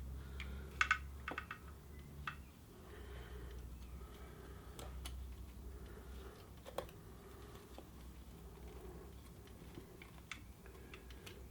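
Scattered small clicks and taps of a screwdriver and throttle cable being worked into a motorcycle carburettor's throttle linkage, a quick cluster about a second in and then single clicks every few seconds, over a faint low hum.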